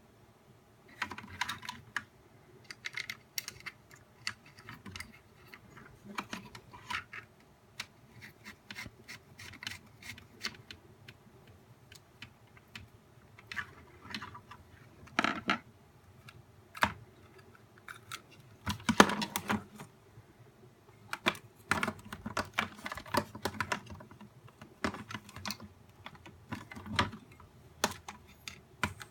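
Irregular clicks, taps and short scrapes of small plastic parts of a nail dust collector being handled during disassembly, with a couple of longer scraping rustles partway through.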